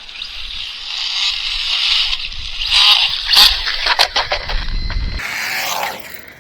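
Electric RC car with a large TP Power brushless motor running hard: a loud whirring hiss from the motor and spinning drivetrain, with a few sharp clicks about three to four seconds in, then it cuts off suddenly about five seconds in.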